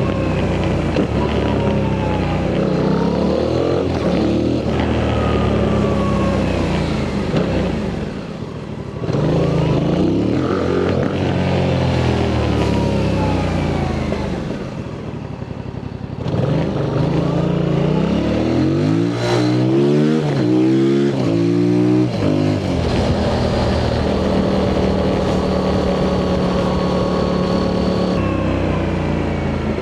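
Yamaha MT-07 parallel-twin engine through its stock exhaust on the move: accelerating with pitch climbing and dropping at each upshift, easing off twice, then a quick run of rising revs through several gears and a steadier cruise near the end.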